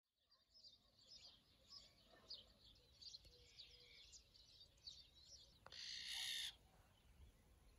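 Faint chirping of small birds, then about six seconds in a single loud, harsh call lasting under a second from an azure-winged magpie.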